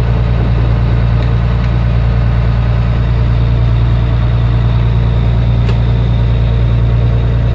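Blue Bird school bus diesel engine idling steadily.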